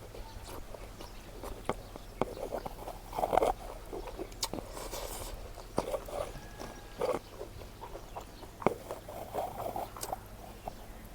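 Close-up mukbang eating sounds: chewing and mouth smacking on smoked pork with anishi and rice, in irregular bursts with scattered sharp clicks.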